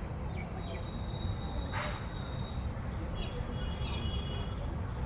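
Outdoor natural ambience: a steady high insect drone with a few short chirps and two thin, held high notes, over a low rumble.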